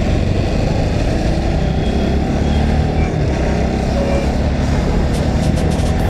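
Steady road noise from a Bajaj Pulsar NS200 motorcycle riding in traffic: engine and wind rumble on the rider's action-camera microphone, with no break or change in it.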